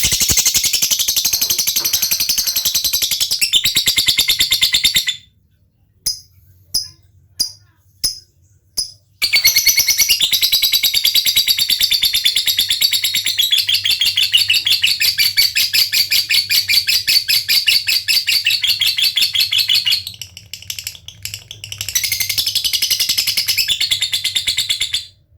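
Lovebird's long, very rapid chattering trill (ngekek), high-pitched and unbroken for several seconds at a time. Between the runs it gives about five single sharp ticks (ngetik). This is the excited display call of a male fighter lovebird.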